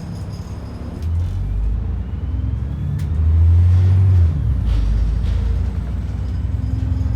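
ADL Enviro 400 double-decker bus's diesel engine under way: a low drone that grows louder about a second in, is loudest a little past the middle and then drops suddenly, with a faint rising whine above it and a single click about three seconds in.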